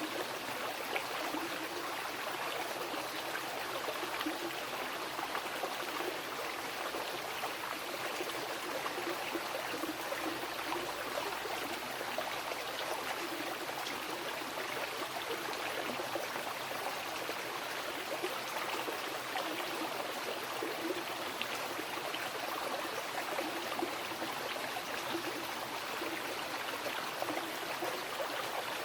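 Mountain river flowing over rocks: a steady rush of water with bubbling and gurgling, even throughout.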